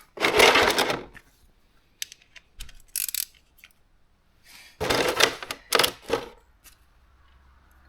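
Metal tools clattering and rattling as they are handled: two loud spells of clatter with a few sharp clicks between them.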